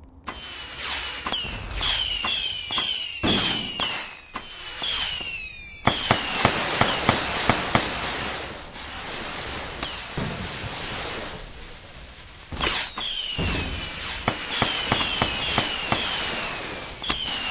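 Fireworks going off: a steady run of bangs and sharp cracks, with many short whistles that fall in pitch. There is a dense burst of loud cracks about six to eight seconds in.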